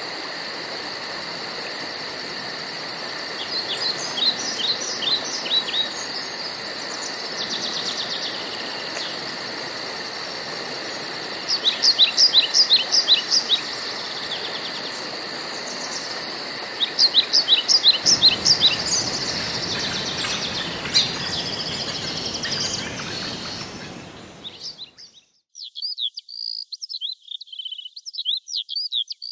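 Woodland birds singing: bursts of quick, repeated falling chirps over a steady high hiss. About 25 s in the background hiss cuts off abruptly, leaving a bird singing alone.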